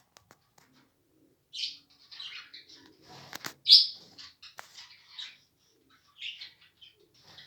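Lovebirds chirping: short, high calls in scattered bursts, the loudest about three and a half seconds in, with a brief rustle just before it.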